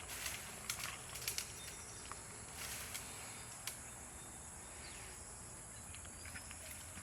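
Light knife clicks and short scraping sounds of fish being cleaned and cut, scattered irregularly over a steady background hiss, with one longer scrape about three seconds in.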